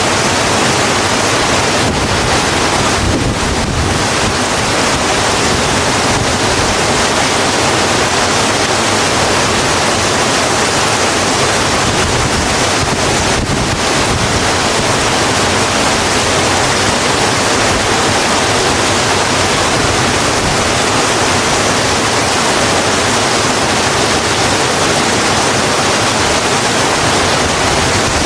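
Steady heavy rain falling on a road, an even hiss with no let-up.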